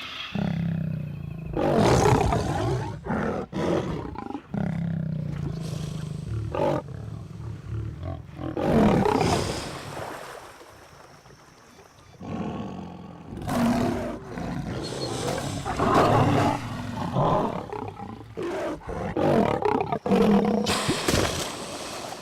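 Lion roaring in a series of loud outbursts, with a lull from about ten to thirteen seconds in.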